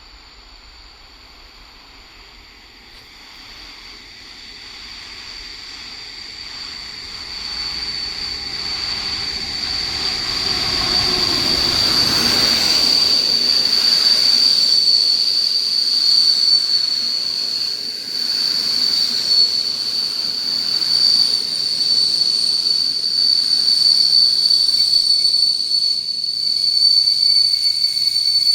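A train drawing near and running through the station, growing steadily louder over the first dozen seconds. A steady high-pitched wheel squeal rides over the rumble throughout.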